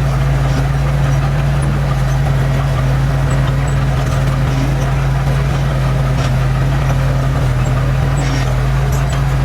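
Heavy diesel engine of earthmoving equipment running steadily at a constant speed with an even low hum.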